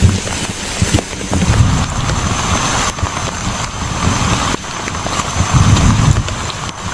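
Strong wind buffeting the microphone in gusts, a low rumbling over a steady hiss.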